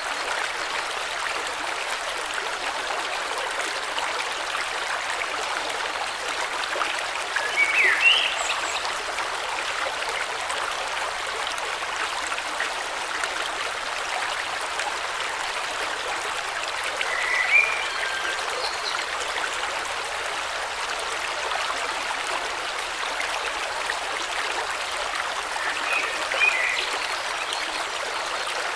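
River water flowing steadily. A bird chirps briefly three times over it, spaced about nine seconds apart.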